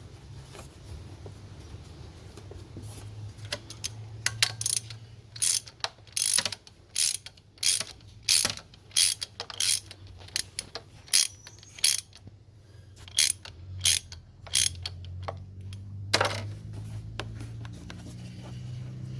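A run of short, sharp mechanical rasps, about two a second, like a ratchet being worked. They start a few seconds in and stop a few seconds before the end. A low steady hum runs underneath.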